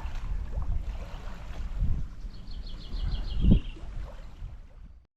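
Low rumble of wind buffeting the microphone over water noise, with a couple of louder gusts, and a short rapid bird trill about two seconds in. The sound cuts off abruptly near the end.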